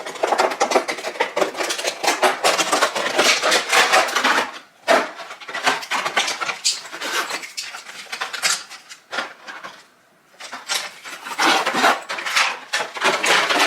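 Makeup brushes and cosmetics clattering as they are handled and put into a container: a busy run of small clicks, knocks and rattles, pausing briefly about four and a half and ten seconds in.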